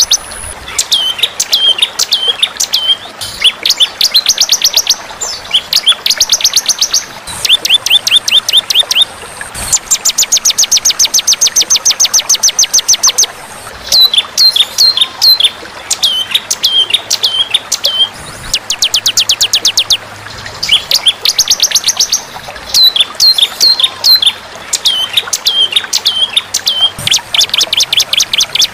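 Recorded songbird calls played as a masteran training track: rapid, buzzy trills alternating with series of sharp, down-hooked chirps, repeated over and over.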